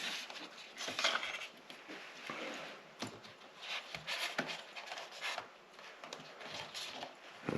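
Handling of a plastic tail light unit and its rubber seal: irregular light clicks, knocks and rubbing as the parts are turned over and pressed together.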